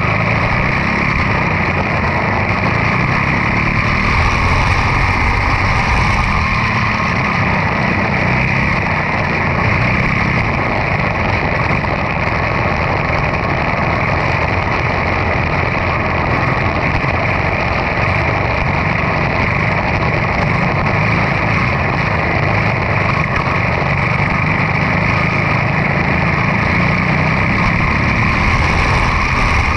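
Quarter midget race car's single-cylinder Briggs & Stratton Animal engine running steadily at an even pitch and level, with no revving up or down.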